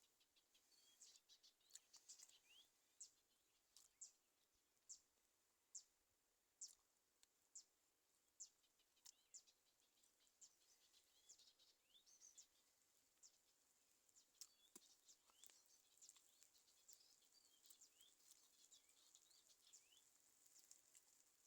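Faint birdsong. One bird repeats short, sharp high chirps about once a second, and more birds join in with denser chirping later.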